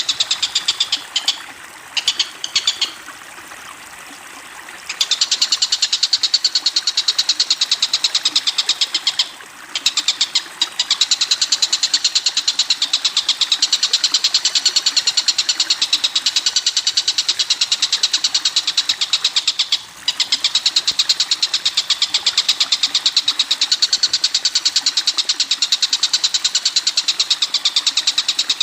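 Recorded bird calls played as a masteran: a fast, high-pitched, evenly pulsed trill of many notes a second, running in long unbroken stretches with brief breaks near the start, about nine seconds in and about twenty seconds in.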